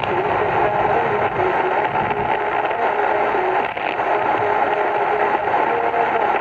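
AM radio tuned to a weak station on 1080 kHz, its signal buried in steady static hiss with scattered crackles from lightning, and faint broken tones of the station's program audio underneath.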